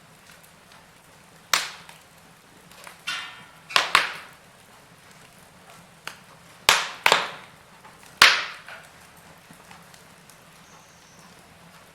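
Wood fire in a fireplace crackling, with about seven sharp, irregular pops, several of them in quick pairs, over a faint steady background.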